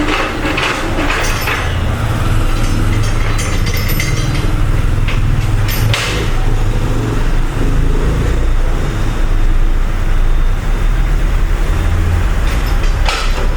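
Metal hand tools clinking and knocking on engine parts while bolts are undone during a water pump removal, over a steady low rumble.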